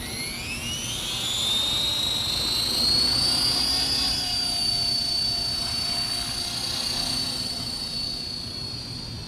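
450-size RC helicopter's electric motor and rotor spooling up. A high whine rises in pitch over the first three seconds or so, then holds steady as the rotor reaches speed.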